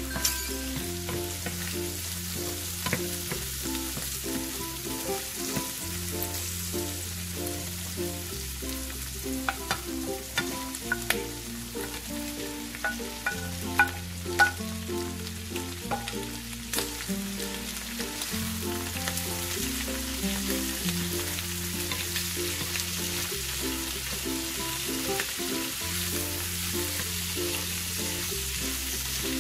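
Shrimp and vegetables sizzling in hot oil in a nonstick pan while being stirred with a wooden spatula, with a cluster of sharp knocks and clatters around the middle as cabbage, green beans and pepper are tipped in. Light background music with a steady bass line plays underneath.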